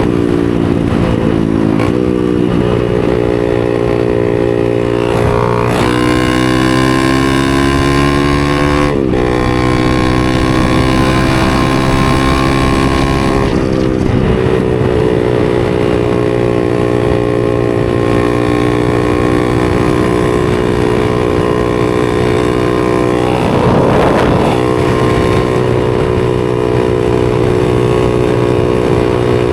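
A 250 cc supermoto motorcycle engine running under way. Its pitch mostly holds steady, and a few times it steps or drops sharply at a gear change. The clearest is a climb in revs that falls off abruptly about nine seconds in.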